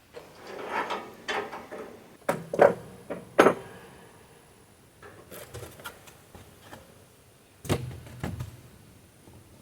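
Steel parts of a bandsaw mill kit being handled during assembly: a shuffling scrape, then three sharp metallic clanks a couple of seconds in, a few light clicks, and a heavier knock near the end.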